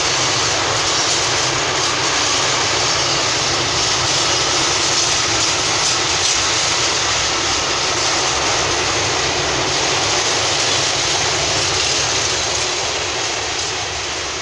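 Long freight train of open-top wagons rolling past at close range: a steady, loud rumble of wheels on the rails that eases off near the end as the last wagons go by.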